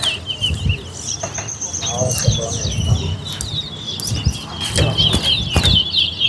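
Caged towa-towa finches (chestnut-bellied seed finches) singing a fast, continuous run of short chirping notes, with a longer high whistled note from about a second in until about three and a half seconds in.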